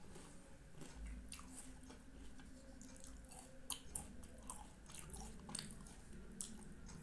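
A person chewing and eating Indian sweets, with irregular wet mouth clicks and smacks.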